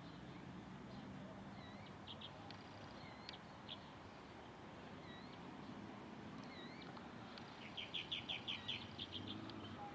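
Birds chirping faintly: scattered short high notes and quick runs of repeated chirps, with a busier rapid series near the end, over a steady low background hum.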